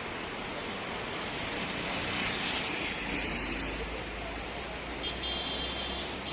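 Road traffic noise, with a vehicle passing: a low rumble builds about a second and a half in and swells through the middle.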